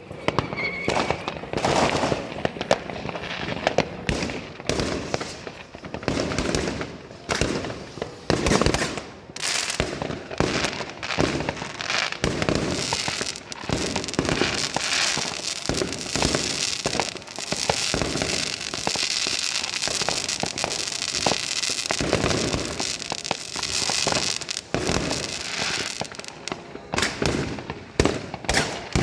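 Fireworks and firecrackers going off in a continuous barrage of bangs and pops, with a denser stretch of crackling for several seconds in the middle.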